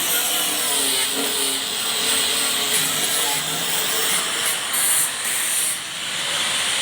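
A power tool working on metal, running steadily with a loud hiss. It dips briefly near the end.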